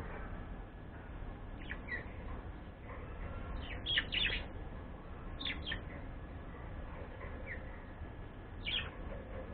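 Pet bird giving short, sharp chirps in small clusters of two or three, the loudest about four seconds in, over a steady low background hum.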